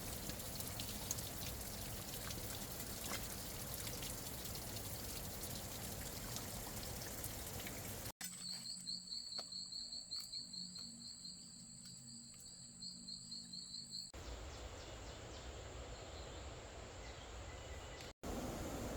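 Steady hiss of rain and running water with a thin high whine over it. About eight seconds in it cuts off abruptly to a quieter stretch of rapid, regular animal chirping calls, and the water hiss comes back about fourteen seconds in.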